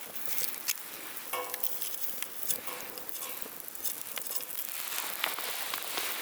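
Wood fire sizzling with a steady hiss and scattered sharp crackling pops.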